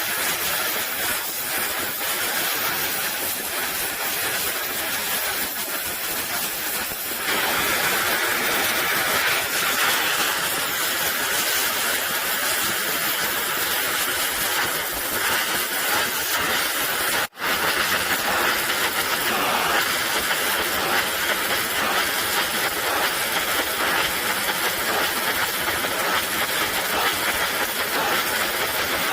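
Oxy-acetylene welding torch flame hissing steadily. It gets louder about seven seconds in and breaks off for an instant around seventeen seconds in.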